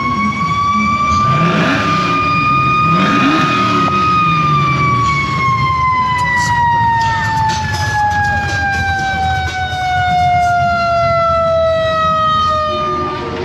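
A siren sounding one long wail: its pitch rises slowly for about four seconds, then sinks steadily for about nine seconds and cuts off near the end, over a low engine rumble.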